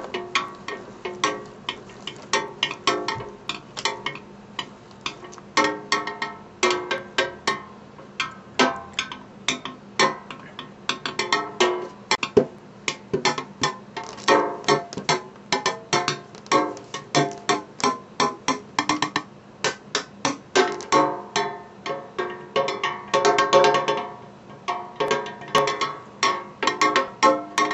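Wrapped springform pan played as a percussion instrument: a quick, irregular run of taps and strikes, several a second, each with a short pitched ring.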